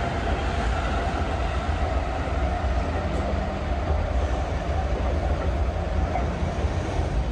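Freight train passing, a steady, continuous rumble of wagons on the rails.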